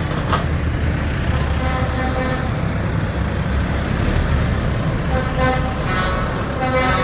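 Engines of tractors and lorries in a parade, rumbling past steadily, with a vehicle horn sounding over them in the last couple of seconds.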